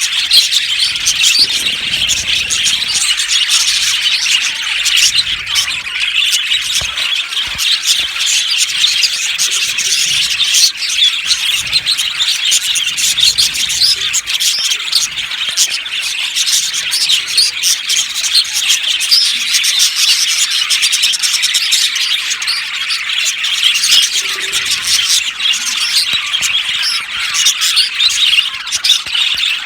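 A flock of budgerigars chattering and chirping together, a dense continuous din of overlapping short, high squawks and warbles.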